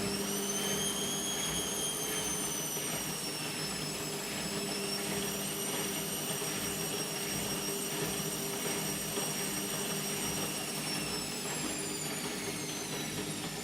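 Indesit MTWC71252WUK washing machine spinning: a high motor whine climbs in pitch as the drum speeds up at the start, holds steady at speed with a low hum underneath, then starts to fall as the spin slows near the end.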